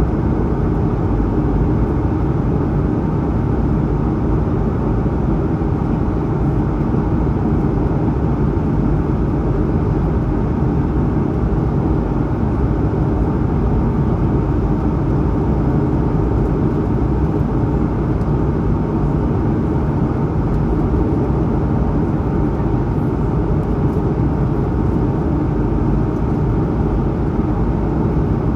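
Steady cabin noise inside an Airbus A220-100 climbing: a constant low rush of its Pratt & Whitney PW1500G geared turbofans and the airflow past the fuselage, with a few faint steady hums above it.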